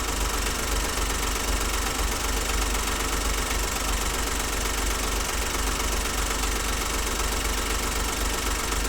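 The Smart Fortwo's 1-litre three-cylinder engine idling steadily. A misfire has been logged on cylinder 3, and that cylinder's coil-on-plug coil is the suspect.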